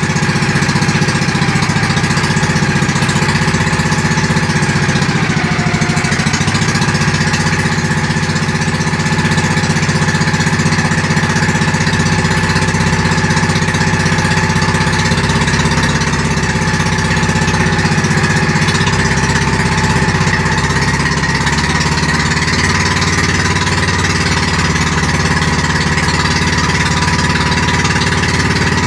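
Pump boat's gasoline engine running steadily and loud under way, with no muffler fitted yet.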